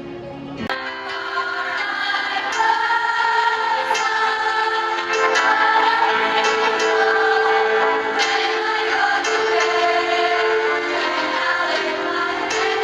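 A student choir singing together, the full sound coming in suddenly less than a second in after a quieter music intro.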